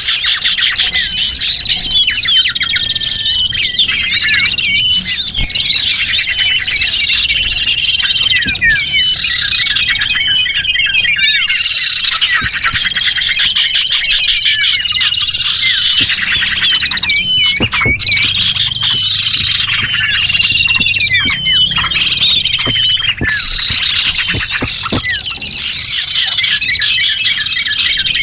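A dense chorus of many small birds chirping and twittering at once, a steady stream of overlapping high chirps, trills and short whistles. It is a bird-lure recording used to draw small birds in.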